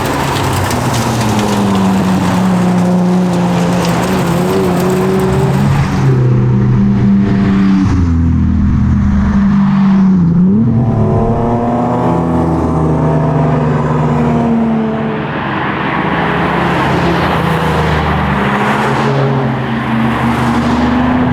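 Toyota MA70 Supra's straight-six engine being driven hard, its revs rising and falling through gear changes. About ten seconds in the revs drop sharply, then climb again.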